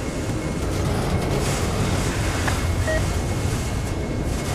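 Norfolk Southern manifest freight train's autorack cars rolling past: a steady rumble of steel wheels on rail, with a brief faint squeal about three seconds in.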